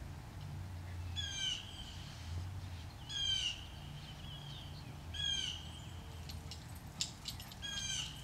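A bird repeating a short call that falls in pitch, four times about two seconds apart, with a few sharp clicks near the end.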